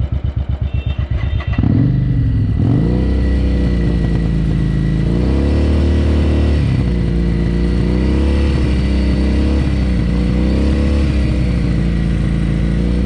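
Motorcycle engine being jump-started: a fast, even chugging for about a second and a half, then the engine catches and runs louder, revving up and down. The Harley-Davidson's battery is flat, so it is started off another bike.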